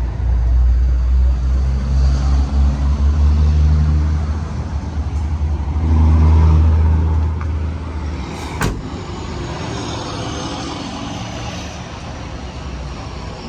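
A truck engine running with a steady low hum that swells louder twice and then settles. A single sharp click comes a little past the middle.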